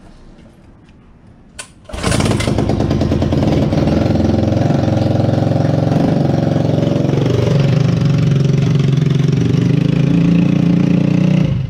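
Mini bike's small gas engine catching about two seconds in and running loud at high, steady revs that never ease off, then cutting out suddenly near the end. The throttle is stuck or set too far open, so the engine races until the spark plug is unplugged.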